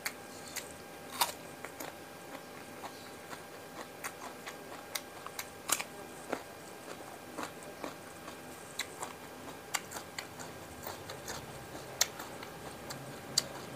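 A person biting and chewing raw cucumber close to a clip-on microphone, with many sharp, irregular crunching clicks. A faint steady hum lies underneath.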